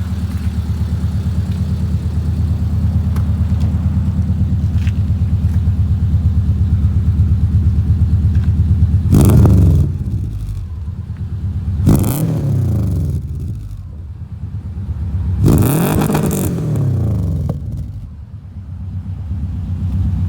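Subaru GC8 coupe's flat-four boxer engine, breathing through Tsudo unequal-length headers and exhaust, idles steadily for about nine seconds. It is then revved three times, a big rev, a quick blip and a last longer rev, each falling back to idle. The unequal-length headers give the boxer its typical uneven rumble.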